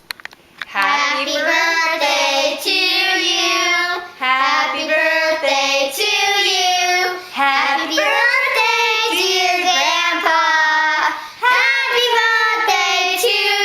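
A child singing loudly, holding notes that step up and down in pitch, starting just under a second in.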